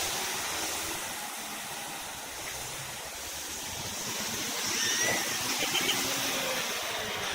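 A vehicle engine running steadily under a broad, even hiss.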